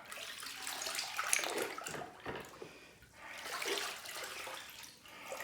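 Running water rinsing a diesel heater part just taken out of an ultrasonic cleaner, the splashing swelling and easing twice.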